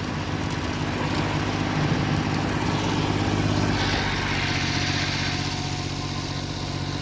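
Small tractor's engine running steadily. A rushing hiss in the upper range joins about four seconds in.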